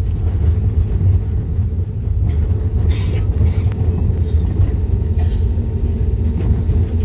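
Steady low rumble of an Airbus A320neo heard from inside the cabin during the landing, with engine and airflow noise that stays even throughout.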